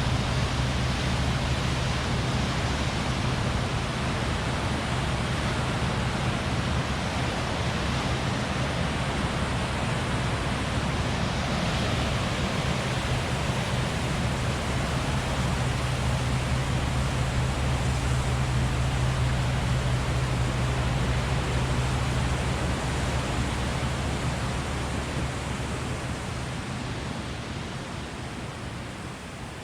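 Steady rushing of a river running high near flood stage, with a low steady hum underneath; it fades over the last few seconds.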